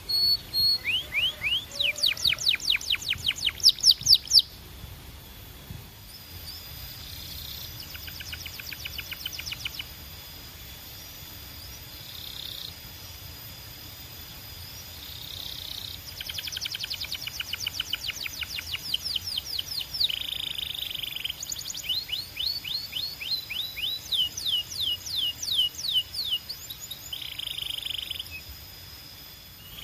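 Canary singing in phrases of fast trills, each made of rapidly repeated sweeping notes. A loud trill comes in the first few seconds, quieter passages follow, and the song picks up again in the second half.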